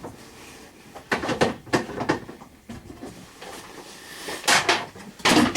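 Short plastic clicks and knocks as a battery tender lead is handled and unplugged from an ATV: a few sharp clicks about a second in, louder knocks near the end.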